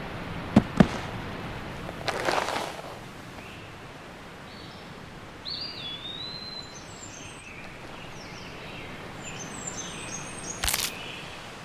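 Bird-like chirping and twittering in short high calls over a steady hiss of background noise. Two sharp clicks come just after the start, a whooshing sweep about two seconds in, and another sharp snap near the end.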